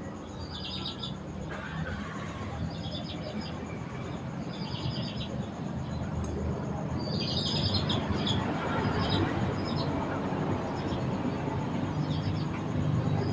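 Small birds chirping in short, quick clusters of high notes every second or two, over a steady low rumble of background noise.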